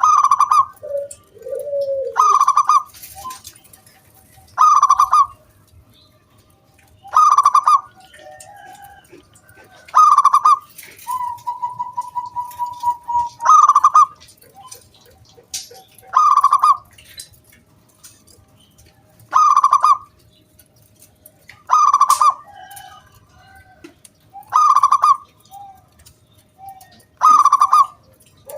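Zebra dove (perkutut) singing its cooing song: a loud, clear, rapidly pulsed call repeated eleven times, roughly every two and a half to three seconds, with a few fainter, lower coos between.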